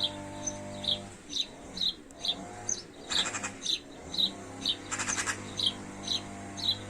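A bird chirping repeatedly in short, high calls, about two a second, with two brief rattling bursts about three and five seconds in. A steady low hum runs underneath.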